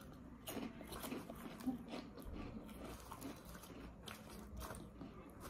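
A person chewing and crunching puffed corn chips with a Cheetos-like texture, in quiet, irregular crunches.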